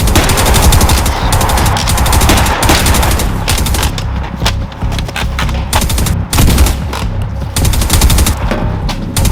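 Rapid, sustained automatic gunfire, a prop-gun shootout most likely given dubbed gun sound effects, with the shots coming thick and fast and thinning a little midway.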